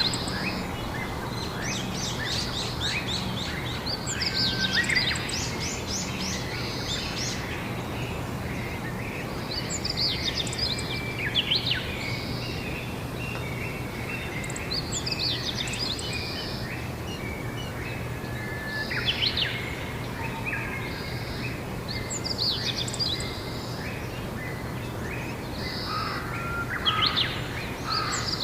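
A songbird singing: short phrases of quick, high notes and trills, repeated every four to six seconds, over a steady low hum.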